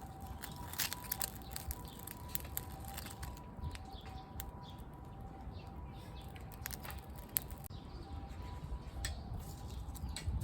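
Wood campfire crackling, with scattered sharp pops and snaps over a low steady rumble.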